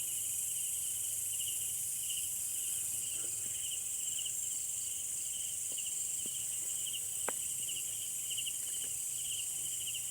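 Night insects chirping: a pulsed, high trill repeating about twice a second over a steady high-pitched insect hiss, with one faint tick about seven seconds in.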